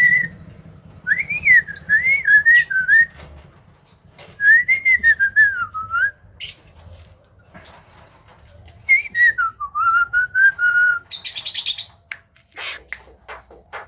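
Javan myna (jalak kebo) giving three wavering whistled phrases, then a harsh rasping burst, followed by a run of sharp clicks near the end.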